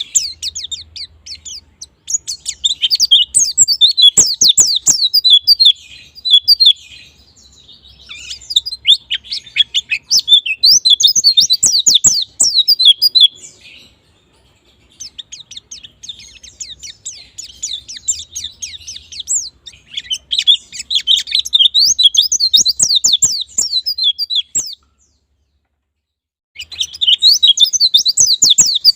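White-eye (pleci) singing a fast, twittering song of quick, sharp chirps, delivered in phrases several seconds long with short pauses between them and a longer pause near the end.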